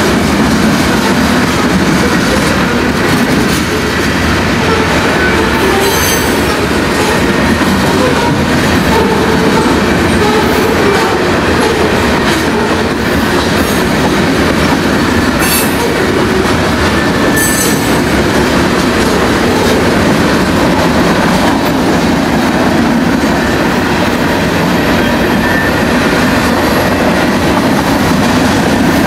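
Freight cars of a BNSF mixed freight train rolling past: a loud, steady rumble and clatter of steel wheels on the rails, with a few brief high squeals from the wheels.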